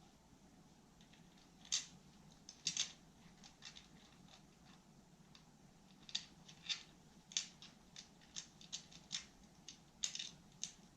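Broken pieces of a faux-marble tabletop clicking and tapping against each other as they are test-fitted: irregular light clicks, about fifteen, in small clusters.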